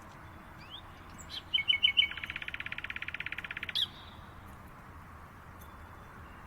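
A songbird sings one phrase about a second and a half in: four quick high notes run straight into a fast, even trill lasting about a second and a half, ending on a sharp note. A steady hiss of background noise lies under it.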